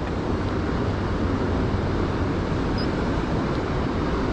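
Steady rushing noise with a low rumble, the kind of wind and water wash an action camera picks up by a river, with a faint short high chirp near the middle.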